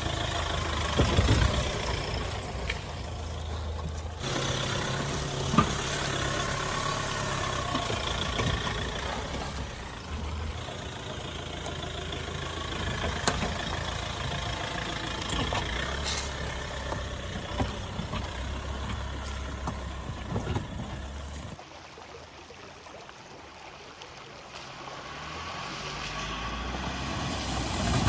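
Mahindra Scorpio SUV's diesel engine running steadily with a low hum, with a few sharp knocks along the way. About two-thirds through it drops away quieter, then builds up again near the end.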